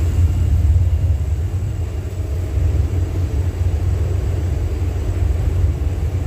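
Steady low rumble aboard a ship at sea in stormy weather, loud and unbroken.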